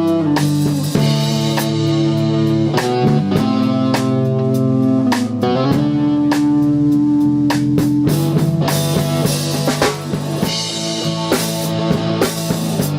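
Instrumental rock jam by a three-piece band: guitar, bass guitar and drum kit playing together, with sustained guitar notes over steady drum hits. The drumming gets busier and brighter about eight seconds in.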